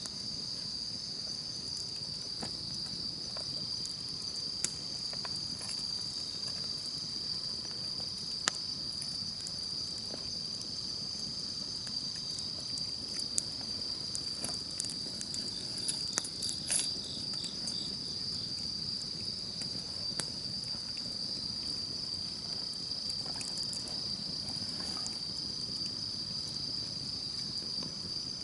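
A steady, high-pitched chorus of insects calling, with the scattered sharp crackles and pops of a wood campfire, a little cluster of them about two-thirds of the way through.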